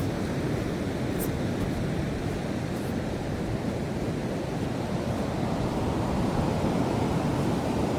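Steady rush of ocean surf breaking on a rocky shoreline.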